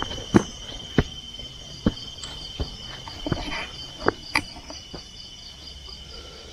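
Crickets and other insects chirring steadily in a high, pulsing chorus. Short knocks come about once a second through the first few seconds, footsteps on the forest floor.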